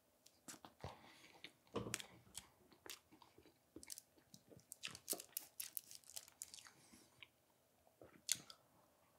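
Close-miked chewing of a flaky egg tart, with crisp crunches of the pastry crust scattered through, the loudest about two seconds in and near the end.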